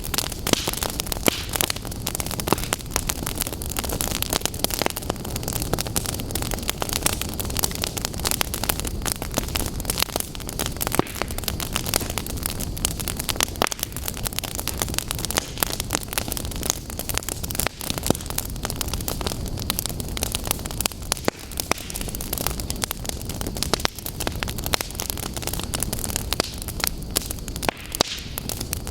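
A fire crackling, with many sharp pops and snaps over a steady hiss.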